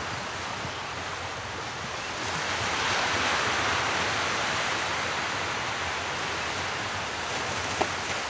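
Sea waves washing on the shore: a steady wash of surf, with a wave swelling about two seconds in and slowly easing off.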